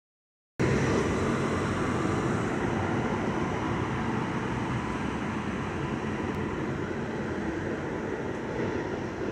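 Passenger train passing close by: a steady rolling noise, a little louder at first and easing slightly as it goes on.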